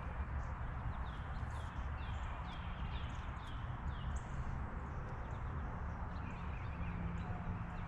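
A bird calling a quick series of short, falling chirps, about three a second, fading out after about four seconds, over a steady low rumble.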